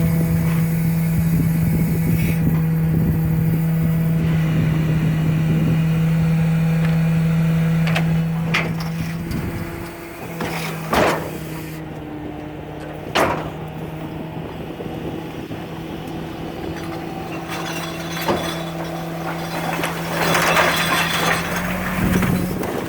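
Caterpillar C7 diesel of a Freightliner garbage truck running steadily at raised revs, louder for the first several seconds and then easing off. Two sharp bangs come a couple of seconds apart near the middle, and a clattering crash follows near the end.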